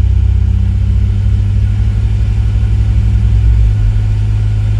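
Ford Windstar's 3.8-litre V6 engine running at raised RPM while brake torqued, held in gear against the brakes. This is a test of whether a lean condition on both banks improves with engine speed, which points to an intake vacuum leak. The steady low engine note shifts and drops slightly about three and a half seconds in.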